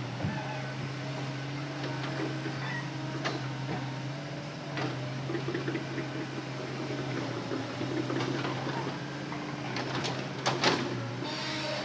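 Hitachi Zaxis excavator engine running steadily at a low hum, with a few short knocks and clunks, the loudest about ten and a half seconds in.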